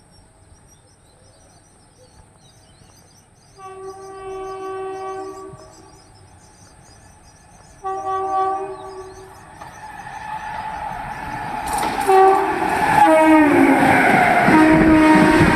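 WAP-7 electric locomotive's air horn sounding two blasts as the express approaches, then the train's rumble and wheel noise building steadily louder as it passes at about 130 km/h, with more horn that drops in pitch as it goes by. Crickets chirp faintly at the start.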